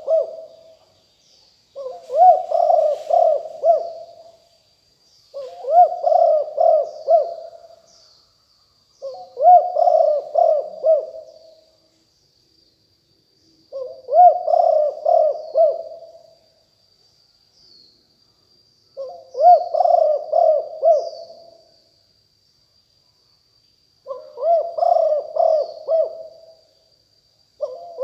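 Spotted dove cooing: seven phrases of about five low coos each, every phrase about two seconds long and repeated every three to five seconds. Faint small-bird chirps and a steady thin high whine run underneath.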